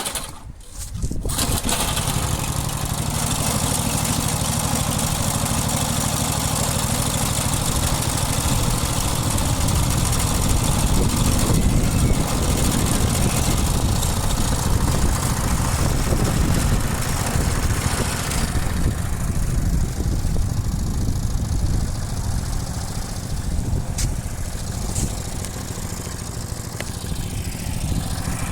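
Briggs & Stratton single-cylinder push-mower engine pull-started and catching within about a second and a half, then running steadily at high idle, with the whole machine rattling. The sound dulls a little after about eighteen seconds.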